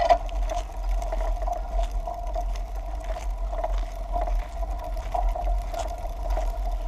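Bicycle rolling along the pavement: a steady hum that swells and fades every half second or so, with a low rumble of wind on the microphone.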